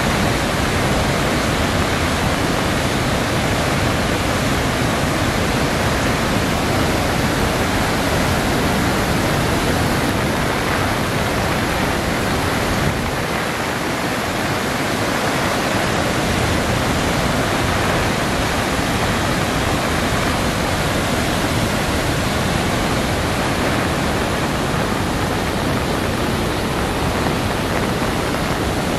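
Sogi Falls, a waterfall in heavy flow after rain: a loud, steady rush of falling water.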